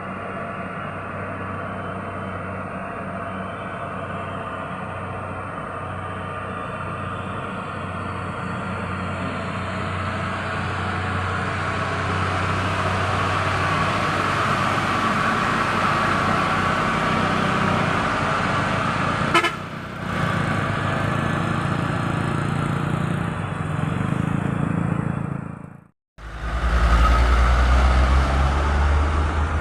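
Heavy truck engines labouring up a steep climb, a steady drone growing gradually louder, with a vehicle horn sounding. Near the end the sound cuts out abruptly, then comes back as a louder, deeper engine drone.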